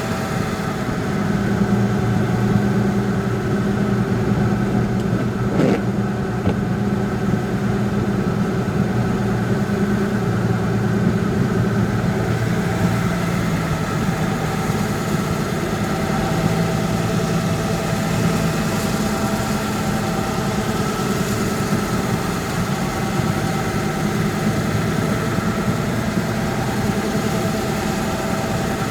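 Vehicle engine running steadily with road noise while driving, with a single sharp click about six seconds in.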